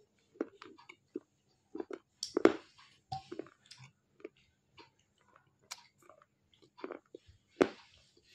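A person chewing a clay roll with the mouth close to the microphone: irregular crisp crunches and small clicks. Two louder crunches come about two and a half seconds in and near the end.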